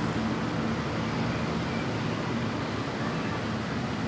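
A steady mechanical hum with hiss, holding an even level throughout.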